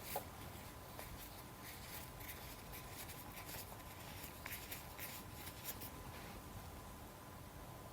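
Faint handling noise: light rustles, rubs and small ticks scattered throughout, as a fuel injector is turned over in the hands, over a faint steady hum.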